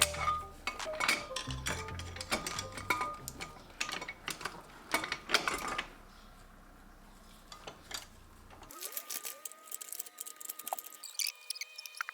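Metal gearbox parts clinking and clanking as they are handled, over background music. The clanking is densest in the first six seconds and thins out after that.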